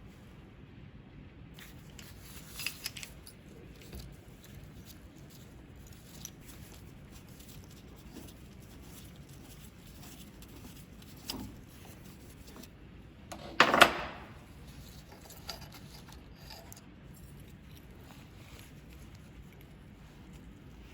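Small metal parts and tools being handled on a workbench: a few light clinks, with one louder clatter about fourteen seconds in.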